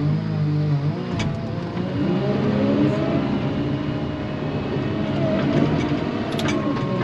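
Snow-clearing machine's engine working under load. Its pitch rises about two seconds in, holds high, then drops back near the end, with a few light clicks.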